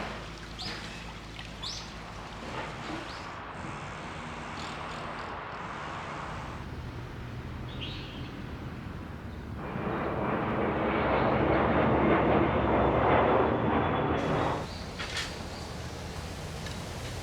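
Outdoor ambience: a few short bird chirps over a steady background rush, then a louder rushing noise that swells up for about five seconds, about ten seconds in, and drops away.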